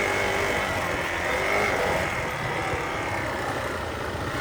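Motorcycle engine running steadily at low speed in first gear.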